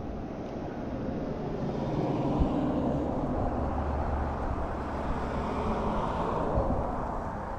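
A passing vehicle whose noise swells over a few seconds and then fades near the end.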